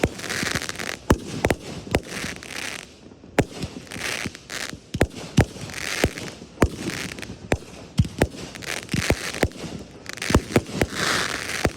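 Fireworks display: sharp bangs going off irregularly, sometimes several a second, with spells of hissing crackle between them.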